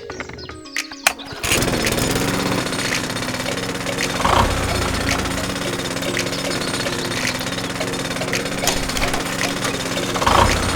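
A small motor-driven model machine starts up about a second and a half in and runs with a rapid, steady rattle over a constant hum, after a few separate clicks.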